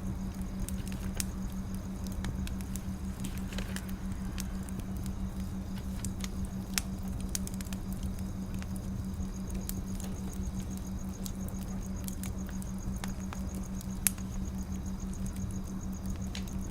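Firewood burning, crackling with scattered small snaps and pops over a steady low hum; one sharper pop stands out about fourteen seconds in.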